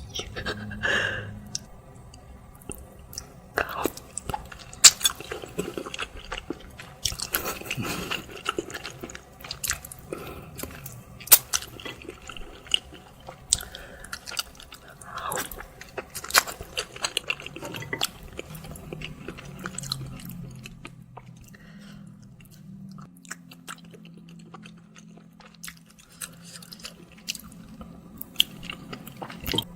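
Close-miked eating of bakso meatball soup and spicy chicken feet: irregular chewing, biting and crunching with sharp wet clicks. A faint low hum sits under the second half.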